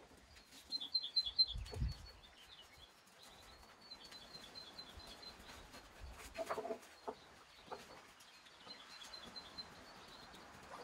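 A small bird chirping in quick runs of high notes, three times over, with a few dull low thumps in the first two seconds.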